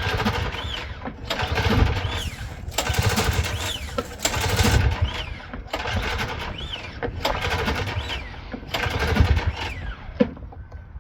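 Recoil starter on an MTD two-stroke engine pulled about seven times, roughly once every second and a half. Each pull is a whir that rises and falls in pitch as the engine turns over without catching: it has too little compression to run.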